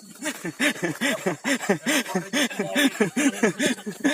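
A man laughing in quick repeated bursts, about four "ha" syllables a second.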